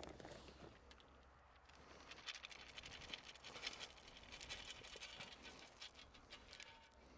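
Faint rustling and light pattering, with a run of small quick ticks from about two to six seconds in.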